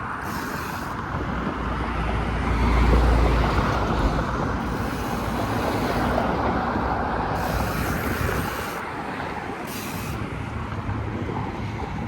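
Outdoor road and traffic noise: a steady hiss with a deep rumble that swells about two to four seconds in, then eases.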